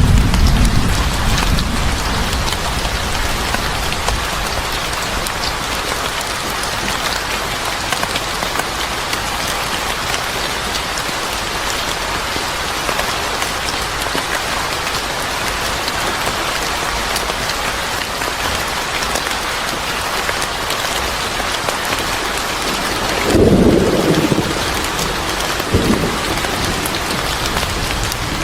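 Steady heavy rain pattering on a surface. A low rumble of thunder dies away in the first couple of seconds, another swells briefly about three-quarters of the way through, and a smaller one follows shortly after.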